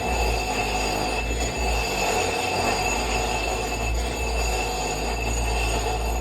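A metalworking machine running steadily as a steel pin is cut down, with steady high whining tones over a low hum.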